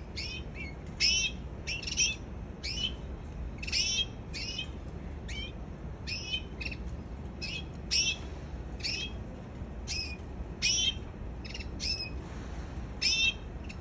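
Canary singing in short, separate chirping phrases of quick warbled notes, repeating about once or twice a second with brief pauses between them.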